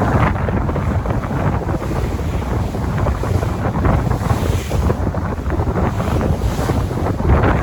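Sea waves washing and surging, with wind buffeting the microphone in a continuous low rumble.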